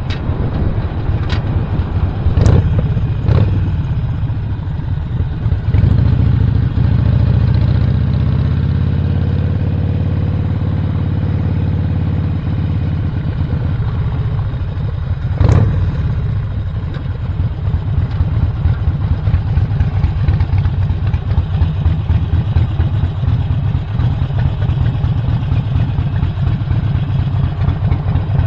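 Stage 1-upgraded 2017 Harley-Davidson Roadster's 1200 cc V-twin running under way. It pulls up through the revs for a few seconds, then eases off, with a few sharp knocks along the way.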